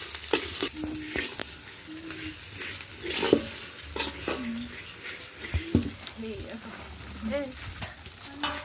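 Small fish frying in oil in a cooking pot, sizzling, with a spoon stirring and scraping against the pot in irregular knocks.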